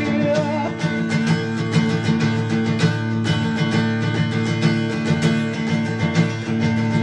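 Acoustic guitar strumming in an unplugged song, steady chords with many quick strokes.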